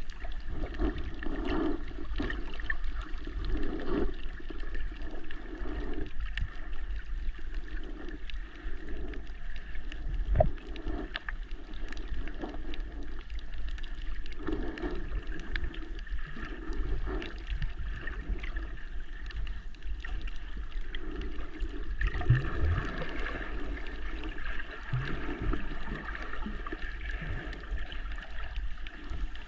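Muffled underwater water noise picked up by a GoPro in its housing: irregular sloshing and gurgling over a steady low rumble.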